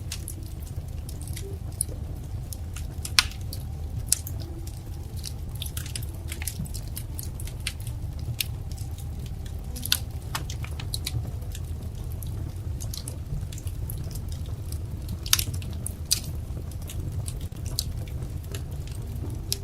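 Wood fire crackling: irregular sharp pops and snaps over a steady low rumble, with a few louder pops about 3, 10 and 15 seconds in.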